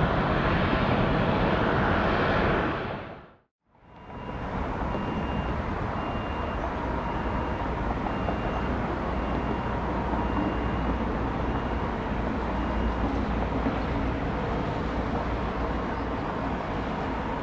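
Jet airliner engine noise, a steady rush, fades out about three seconds in and comes back a little quieter a moment later. A faint, evenly spaced high beeping runs through the middle part.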